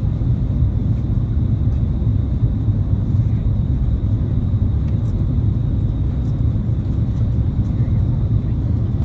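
Steady low rumble of cabin noise inside an Airbus A330-300 airliner, its Rolls-Royce Trent 700 engines and the airflow heard through the fuselage, with a faint steady high whine above it.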